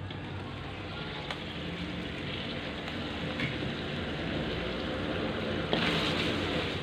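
Chicken pieces sizzling in an open aluminium wok as they fry in their own juices. The hiss rises briefly about six seconds in, when a wooden spatula stirs them.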